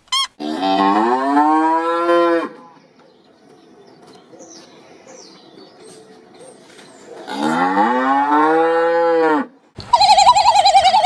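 A cow mooing twice, two long calls that rise and then fall, about five seconds apart. A different animal recording cuts in near the end.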